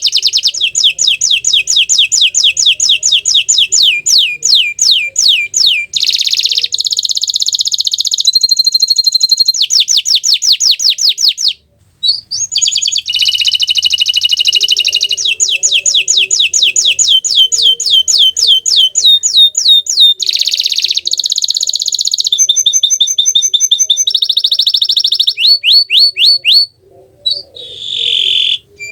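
Bottle-green domestic canary singing a long, loud song of fast trills and rolls: runs of quick repeated high notes, phrase after phrase, with brief breaks about twelve seconds in and near the end.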